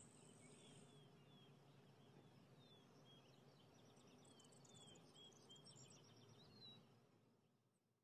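Near silence: faint outdoor ambience with small birds chirping, a string of short falling chirps over a low rumble, fading out near the end.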